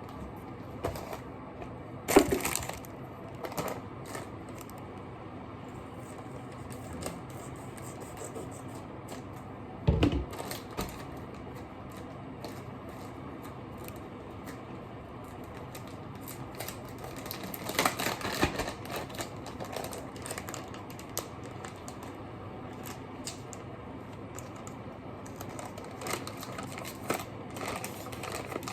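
Kitchen clatter of utensils and dishes: scattered knocks and clinks, a loud knock about two seconds in, another about ten seconds in, and a run of clatter near the eighteen-second mark.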